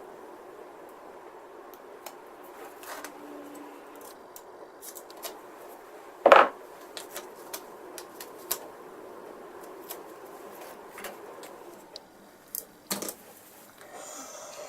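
Sparse light clicks and taps of small hobby tools on a plastic model kit, with one louder clatter about six seconds in, over a faint steady hum.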